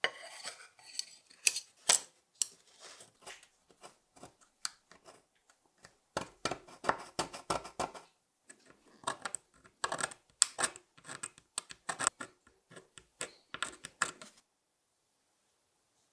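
Small hard parts clinking and rattling as they are handled, in quick clusters of clicks with a sparser stretch in the middle. The sound stops about two seconds before the end.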